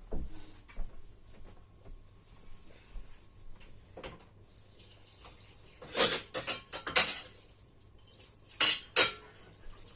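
Dishes and cutlery clinking and clattering as they are handled while washing up, with scattered light knocks and two busier bursts of clatter in the second half.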